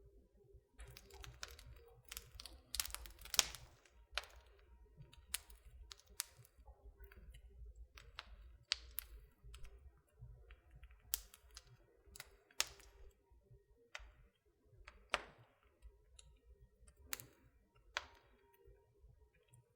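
Wood fire burning in a fireplace, crackling with irregular sharp pops and snaps over a faint low rumble, the pops clustering most densely around the third second.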